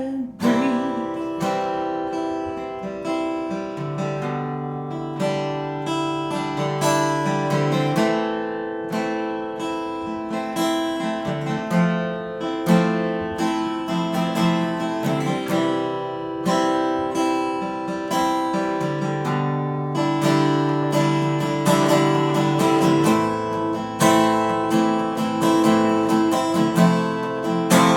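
Acoustic guitar strummed through an instrumental break, the chords changing every few seconds, after a sung word about a second in.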